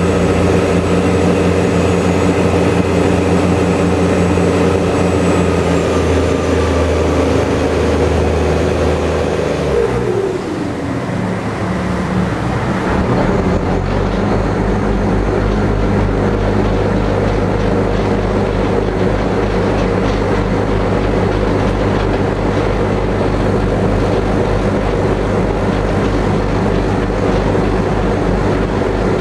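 Passenger ferry's engines droning steadily at speed. About ten seconds in the engine note slides down in pitch, and after a brief dip it settles into a lower, steady drone with a strong low throb.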